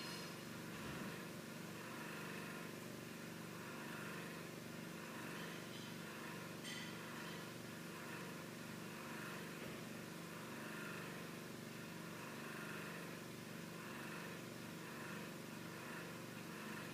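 Faint steady mechanical hum of background room tone, with a brief light click about seven seconds in.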